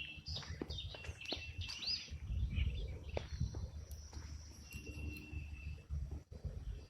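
Birds chirping outdoors, short calls and brief rising notes scattered throughout, over a low rumble that is loudest about two seconds in.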